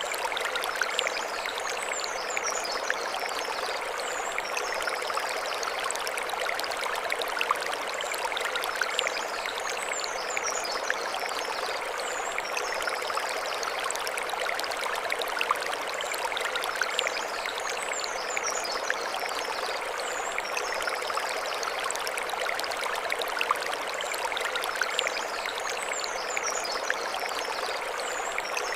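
Mountain stream running over stones, a steady rushing splash. A short high chirping phrase recurs about every eight seconds above the water.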